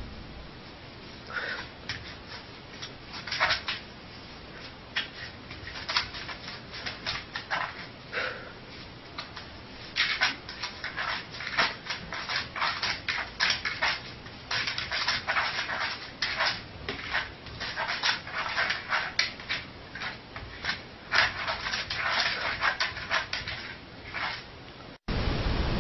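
A dog making many short, irregular whimpers and yips in its sleep, sparse at first and coming thick and fast from about ten seconds in.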